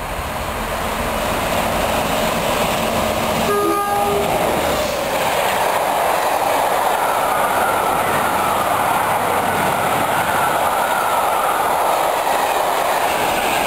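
A train passing at speed, with a steady rushing noise of wheels and body that builds over the first seconds. One short horn blast sounds about four seconds in.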